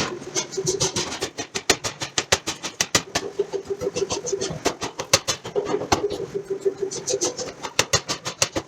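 Forging-shop machinery: rapid, irregular metallic clicks and knocks, several a second, over a steady machine hum.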